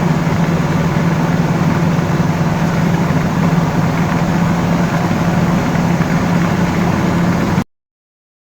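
A 5.3-litre LS V8 in a 1949 Chevrolet pickup running steadily while the truck drives down the road, with road noise. The sound cuts off suddenly near the end.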